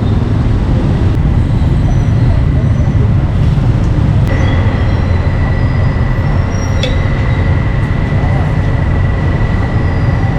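Busy street-market ambience dominated by a steady low rumble. A thin steady high tone joins about four seconds in, and there is a single sharp click about seven seconds in.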